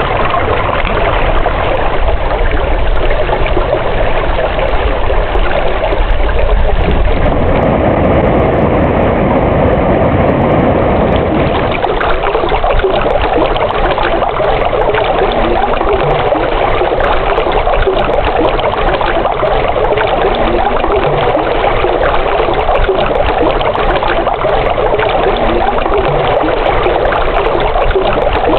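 Running water of a stream flowing steadily, a continuous rushing and trickling, with a low rumble underneath for roughly the first twelve seconds.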